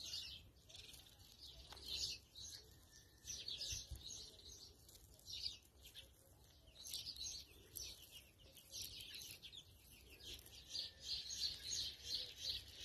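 Small birds chirping in short bursts of rapid high chirps, one cluster after another, over a faint low rumble.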